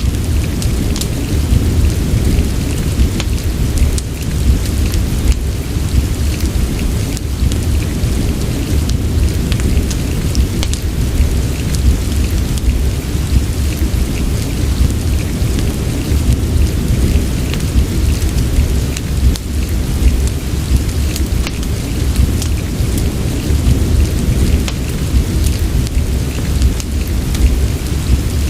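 Steady rain mixed with a fireplace: a dense low rumble with a hiss of rain above it and scattered small crackles and ticks throughout.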